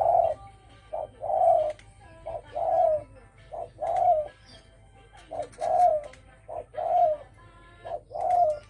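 Spotted dove cooing in the deep 'thổ sấm' style, a short note then a longer one, repeated about seven times at an even pace of roughly one coo every second and a bit.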